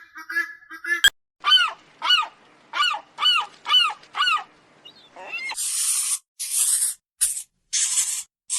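An animal calling in a quick series of about seven honk-like cries, each rising then falling in pitch, followed a second later by a run of short, harsh hissing bursts.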